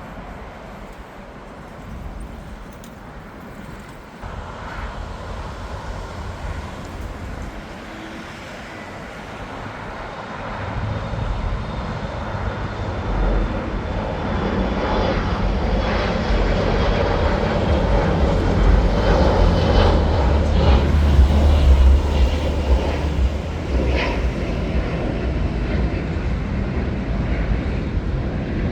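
Airliner jet engines, a deep rumble growing louder from about a third of the way in, peaking past the middle, then holding.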